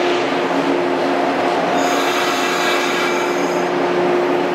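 Shinano Railway 115-series electric train rolling slowly into the station, with a steady hum from the train. About two seconds in, a high-pitched squeal from under the train joins in and lasts about two seconds.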